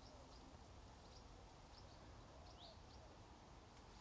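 Near silence: faint outdoor ambience with a few short, high chirps from small birds scattered through it.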